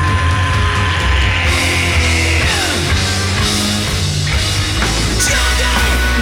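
Rock band playing loudly, with a heavy bass and drum low end and sustained electric guitar notes; about two and a half seconds in, one note slides steeply down in pitch.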